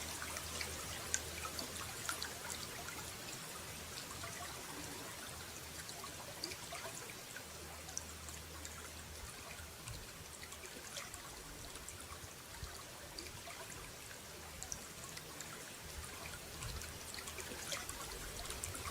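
Running water trickling and pouring steadily, with many small splashing ticks through it.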